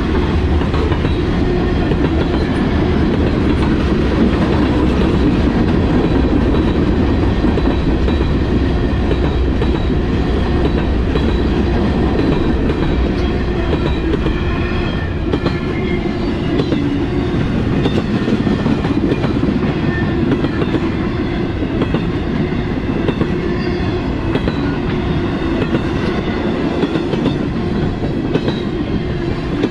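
Freight train rolling past at close range: the steady rumble and clatter of steel wheels on the rails as boxcars, hoppers and flatcars go by, the deepest rumble easing a little about halfway through.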